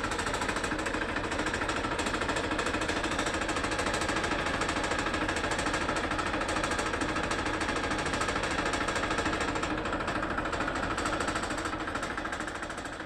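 Massey Ferguson 241 DI tractor's three-cylinder diesel engine running steadily with a fast, even diesel knock.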